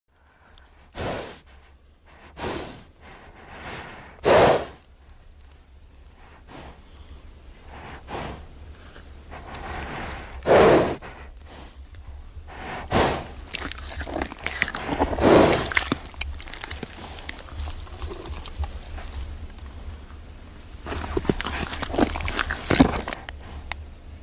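Horse snorting and blowing through its nostrils several times at uneven intervals, with softer breathing in between.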